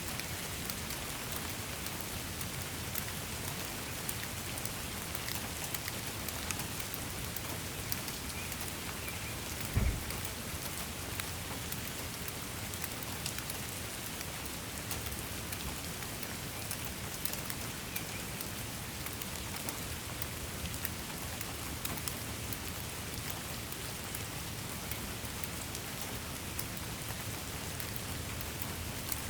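Steady rain falling, with many separate drops ticking on a surface. There is one brief low thump about ten seconds in.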